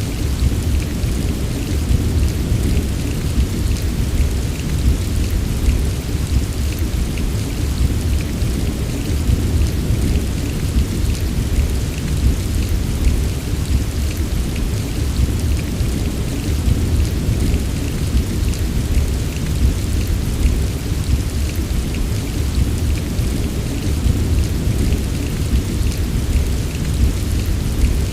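Steady heavy rain: a dense patter of drops over a constant deep rumble, unchanging throughout.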